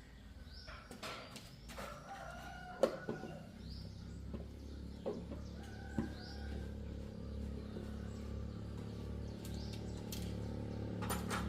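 Chickens clucking, with a few sharp metallic clicks and a low steady hum that comes in a few seconds in and grows louder toward the end.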